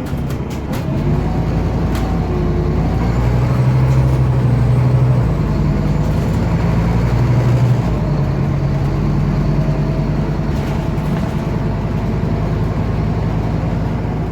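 Scania OmniCity city bus engine running under way, heard from inside the bus: a steady low drone that grows stronger twice as the bus pulls. A few sharp rattling clicks come in the first couple of seconds.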